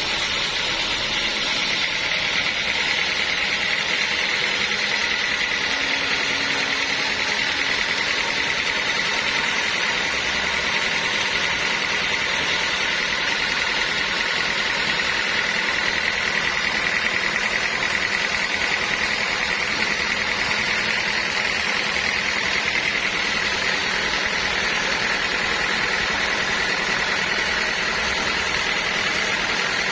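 Log sawmill running steadily, a constant high-pitched whine over machine noise, unbroken for the whole stretch.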